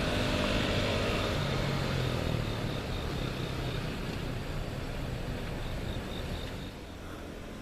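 Diesel locomotive engine running, growing steadily fainter as it moves away.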